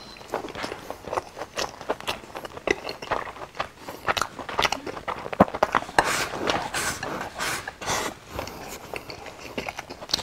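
Close-miked eating: a man chewing and biting mouthfuls of kimchi fried rice, with many irregular wet mouth smacks and clicks.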